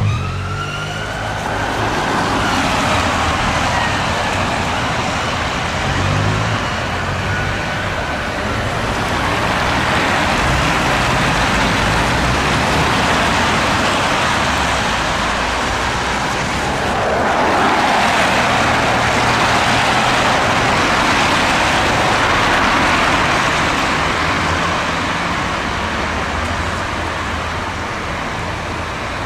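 Road traffic and vehicles passing, with a siren gliding up and down and fading away over the first several seconds.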